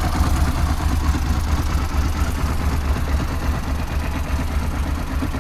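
Suzuki V-Strom DL650 K5's 645 cc V-twin engine idling steadily after a cold start.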